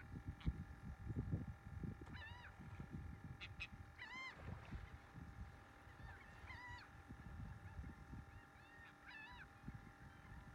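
A bird calling four times, about every two to three seconds, each call a short arched note or quick pair of notes, over a low rumble of wind on the microphone.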